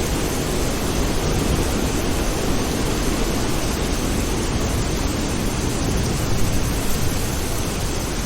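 Steady rain falling, with a low rumble of distant thunder underneath.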